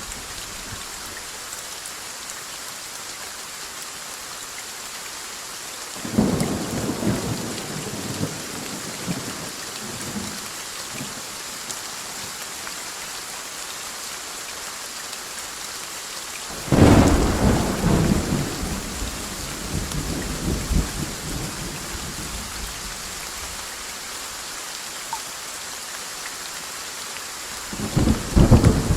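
Steady heavy rain with rolls of thunder: a rumble about six seconds in, a louder, sharper clap and long rumble a little past halfway, and another starting near the end.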